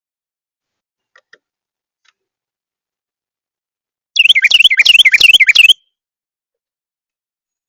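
A small songbird calling close to the microphone: a loud, rapid run of repeated down-slurred chirps lasting about a second and a half, a little past the middle. A few faint ticks come earlier.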